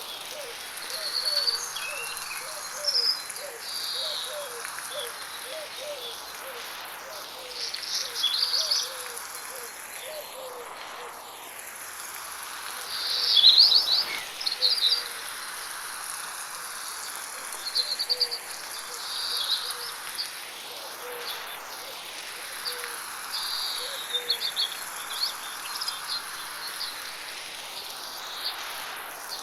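Birds singing in light rain: a steady rain hiss under repeated bright chirps and trilled phrases every few seconds, loudest about halfway through, with a low, quickly repeated call in the first half. The whole scene swirls slowly around the listener, 8D-processed.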